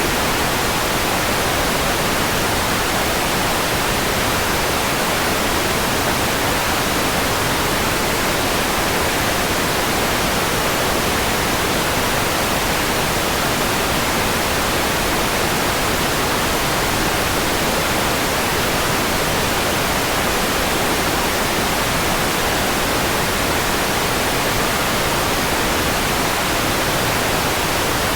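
Steady synthetic white noise: an even, unchanging hiss spread across the whole range from low to high, with no events or changes.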